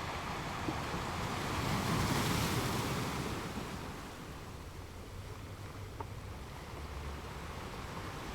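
Ocean waves breaking on the shore: one wave swells and breaks about two seconds in, then fades as the water washes back.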